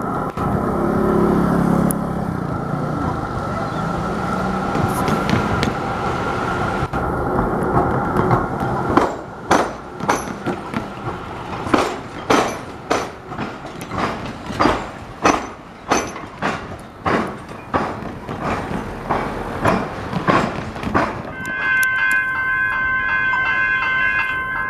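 Train running over the railway–tramway diamond crossing: a steady running noise, then from about nine seconds in a regular clatter of wheels knocking over the crossing gaps, roughly one or two knocks a second, for about twelve seconds. Near the end a steady high ringing tone starts.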